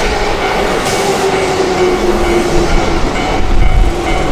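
Keihan Railway electric commuter train running past close by, with wheel and track clatter and a whine that slowly falls in pitch. A short hiss comes about a second in, and the low rumble grows stronger a little past three seconds in.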